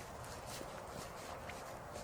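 Steady blizzard wind noise with irregular short crunching clicks on top, several a second.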